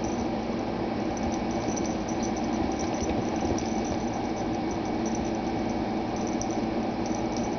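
Steady indoor background hum and hiss, as from a fan or motor, with a few faint light taps.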